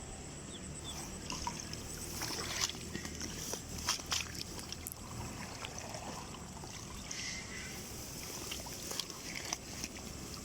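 Shallow water sloshing and trickling with irregular small splashes and clicks, as a hand net scoops through it for wild betta fish.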